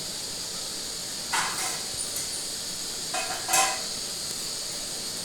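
A steady hiss, with brief sharp sounds about a second and a half in and again around three and a half seconds in.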